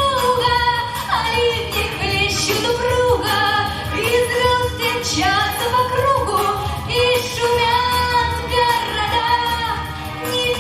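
A girl's voice singing long held melodic notes with vibrato over a pop backing track.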